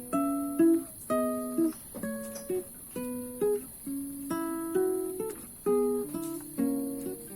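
Acoustic guitar playing a slow melody of struck chords, about one or two a second, each ringing out, with some notes sliding up in pitch.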